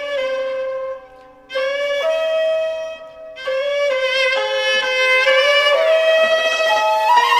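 Xiao, the Chinese end-blown bamboo flute, playing a slow melody in held notes, with short breaks between phrases about a second in and again near three seconds, then playing on without a break.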